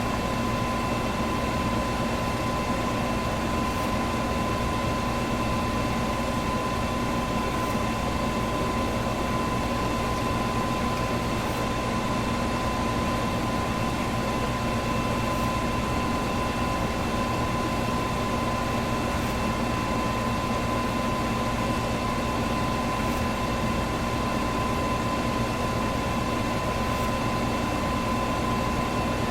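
Electric fan running steadily: an even rush of air with a constant mid-pitched whine and a low motor hum underneath.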